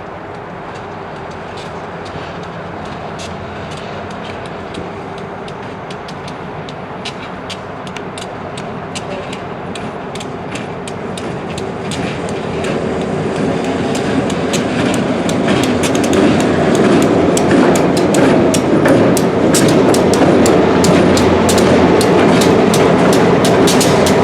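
Freight train rolling on yard track, its rumble growing louder as it comes closer, with the wheels clicking over rail joints more and more often in the second half.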